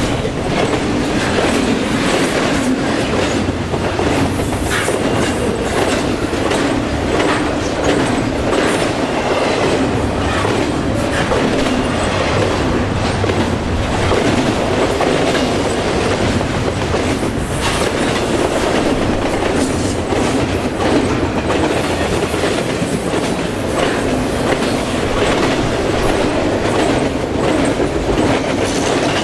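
Double-stack intermodal container train rolling past at speed close by: a steady loud rumble of steel wheels on rail, with repeated clicks as the wheels cross rail joints.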